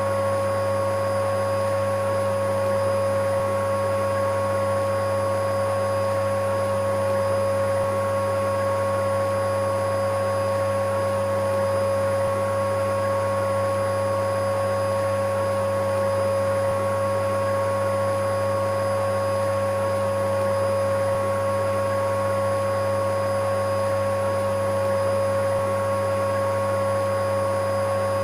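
Electric vacuum cleaner running steadily, a constant motor drone with a high whine and an airy hiss that never changes in level.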